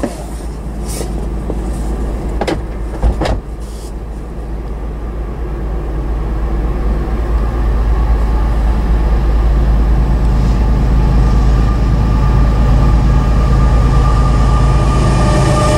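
Norfolk Southern diesel locomotive approaching: a low engine rumble that grows steadily louder, with a high steady whine coming in over it in the last few seconds. Two sharp knocks about two and a half and three seconds in.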